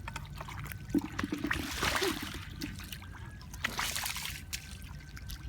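Water splashing and trickling in irregular bursts, with scattered small clicks.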